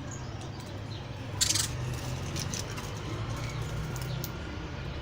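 Birds on a veranda: a few faint high chirps and light ticks, with a short loud rustling burst about a second and a half in, over a steady low hum.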